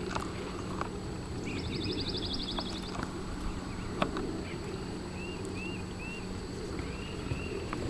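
Outdoor yard ambience of birds: a bird's fast trill of rapidly repeated high notes, then a series of short, separate chirps, over a low steady rumble and a few faint clicks.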